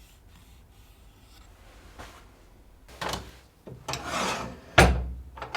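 Workshop handling sounds: short scraping and rubbing strokes from about two seconds in, then a sharp, heavy knock near the end.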